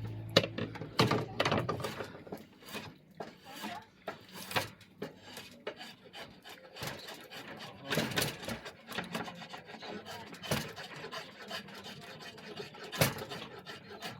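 Hand tool scraping along the wood of an oak bow limb as it is tapered, in irregular strokes of uneven length and loudness.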